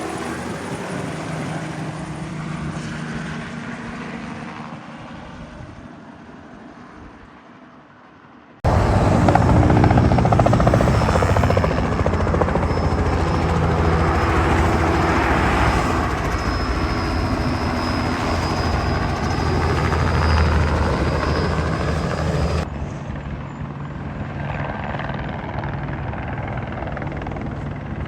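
Turbine helicopters heard in three cut-together shots: the first fades away as it gets farther off, the second is loud and close with a high steady turbine whine over the rotor, and the third is quieter.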